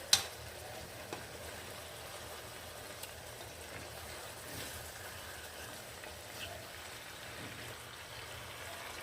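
Marinated chicken pieces frying in their own oil in a pot, a steady soft sizzle, with one sharp clink just after the start and a few faint taps later.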